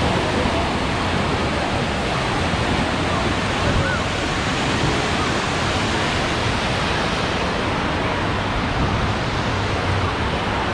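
Steady rush of water with no breaks or rhythm, with faint voices in the background.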